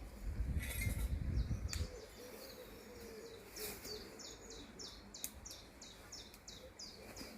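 A songbird singing a quick run of repeated high, falling notes, about three a second, through the middle of the stretch. A low rumbling noise sounds for the first two seconds before it.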